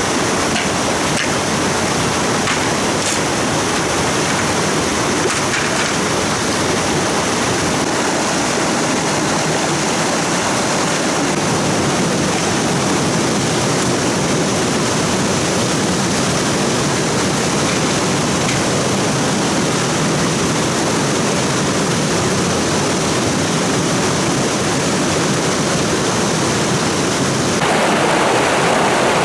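Stream water rushing steadily over rocks, a continuous loud hiss of flowing water. Near the end the water sound abruptly shifts to a fuller, lower rush.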